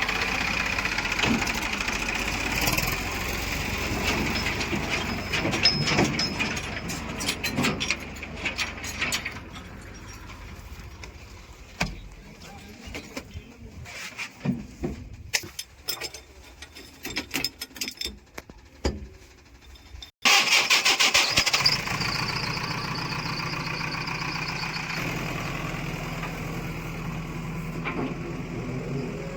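Diesel engines of heavy farm machinery running, with an abrupt change about twenty seconds in to a louder, steady engine sound.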